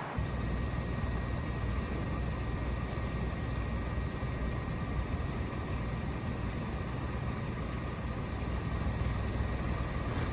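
2015 Kia Optima's engine idling steadily, a low even rumble.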